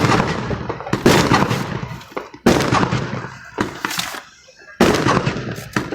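Fireworks going off in a series of sharp bangs, about one a second, each trailing off over roughly a second.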